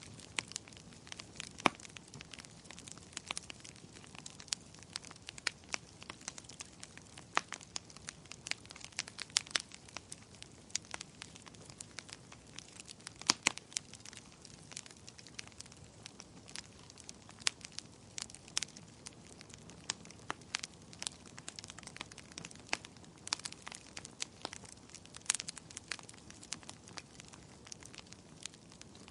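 Fireplace fire crackling steadily, with irregular sharp pops of varying loudness, several a second, over a low hiss.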